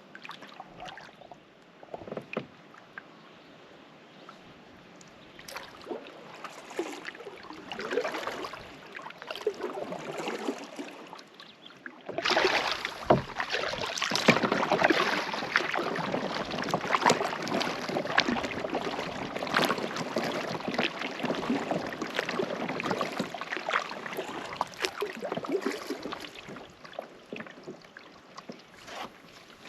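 Canoe paddle strokes in lake water: the paddle dipping and pulling with splashes and drips. Sparse and quieter at first, then suddenly louder and busier about twelve seconds in.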